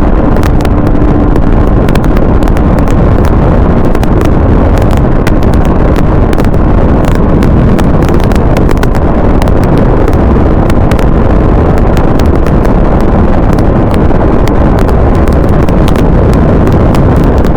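Heavy wind rushing over the microphone of a moving motorcycle, steady and loud, with frequent crackling pops and a vehicle running underneath.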